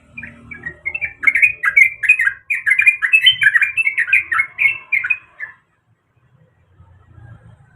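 Sooty-headed bulbul (trucuk) singing a fast run of short notes, about four a second, that stops after some five seconds.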